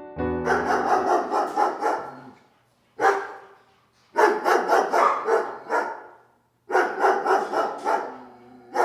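A dog barking in quick runs of several barks each, about four or five barks a second, with short pauses between the runs.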